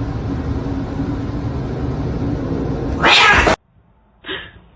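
A cat growling low and steadily, ending in a loud short outburst about three seconds in that cuts off abruptly.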